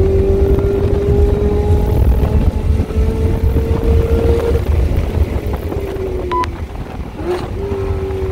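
Chevrolet Camaro ZL1 1LE's supercharged 6.2-litre V8 pulling hard down the straight at well over 100 mph, its pitch rising slowly. About four and a half seconds in, it lifts off for hard braking, and near the end there is a quick downshift blip. Heavy wind and road noise throughout.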